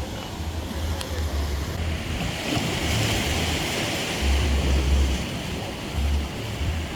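Sea surf washing on the shore with wind buffeting the microphone in uneven low gusts; the wash grows louder about two seconds in.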